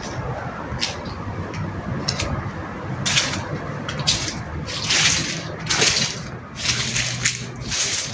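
Water splashing and gurgling in irregular surges over a steady low background noise.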